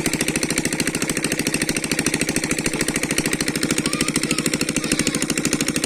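A small engine running steadily at a constant speed, with a fast, even chugging beat.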